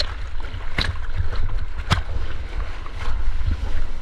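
Sea water sloshing and splashing around a surfer's GoPro in its waterproof housing, with a steady low rumble and two sharp knocks, about one and two seconds in.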